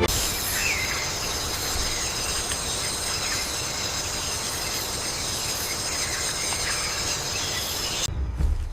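Jungle ambience: a steady, even hiss with several high, steady whining tones layered on top. It cuts off suddenly about eight seconds in.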